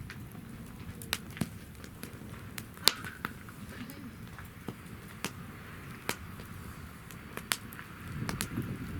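Wood fire burning in a fire pit stand, crackling with irregular sharp pops, the loudest about three seconds in, over a low steady noise of the flames.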